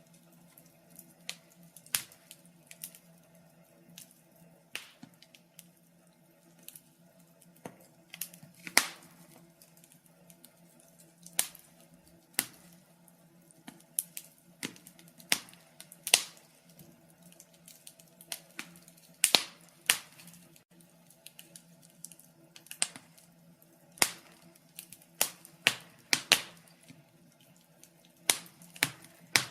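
Wood fire crackling: irregular sharp snaps and pops, a few loud ones among many small ticks, over a faint steady low hum.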